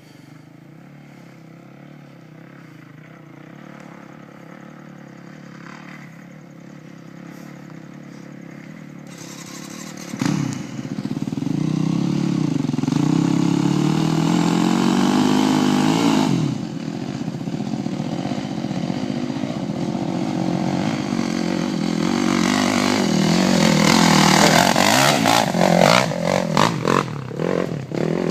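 Dirt bike engine, faint at first, then revving hard from about ten seconds in with its pitch swinging up and down, running loudly on, and ending in short choppy blips of throttle near the end.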